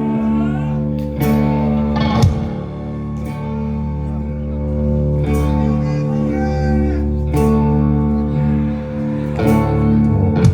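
A rock band playing live: electric guitars hold loud, ringing chords, with drum and cymbal hits landing about every two seconds.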